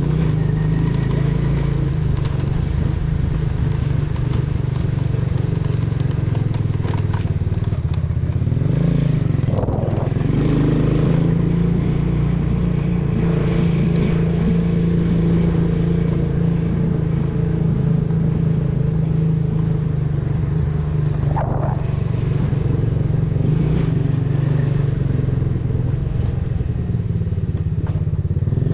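125 cc custom motorcycle's engine and exhaust running steadily while riding, a continuous low drone with only slight changes in pitch.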